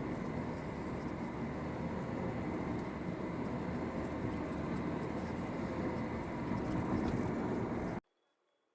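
Steady vehicle noise with a faint wavering hum, cutting off suddenly about eight seconds in.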